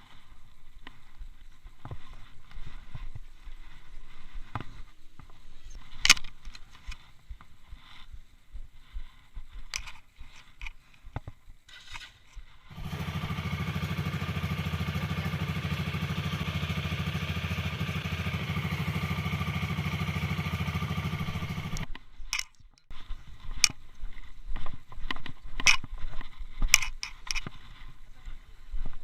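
Small motorcycle engine running steadily for about nine seconds in the middle, starting and stopping abruptly. Before and after it, scattered clicks and knocks.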